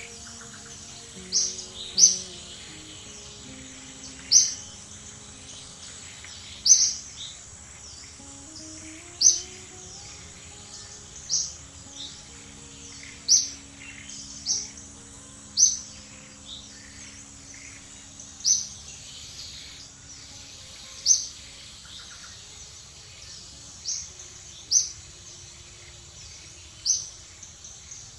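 Short, sharp, high-pitched bird chirps repeated about every two seconds over a faint steady background, with faint sustained low tones underneath.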